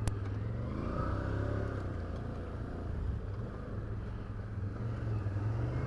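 Can-Am Outlander 850 XT ATV's V-twin engine running steadily on a trail, a constant low drone, with one sharp click right at the start.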